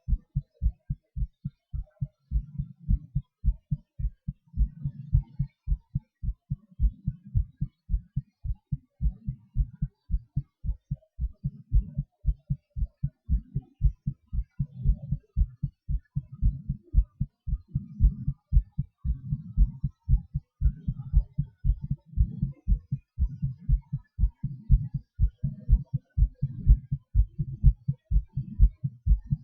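Human heartbeat heard close up through a chest microphone: a quick, steady run of low lub-dub thumps. Under it a low rushing swells and fades about every two seconds, typical of breathing heard through the chest during panting.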